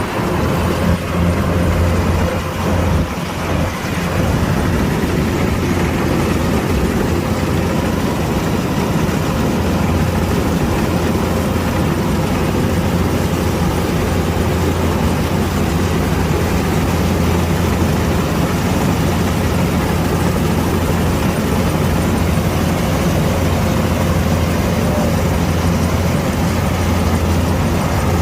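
Kubota DC-105X combine harvester's diesel engine running steadily under load, with a deep hum beneath a dense mechanical noise. The sound is a little uneven for the first few seconds.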